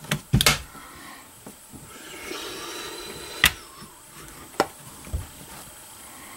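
A few sharp clicks and knocks, a double one about half a second in and the loudest about three and a half seconds in, followed by a dull thump.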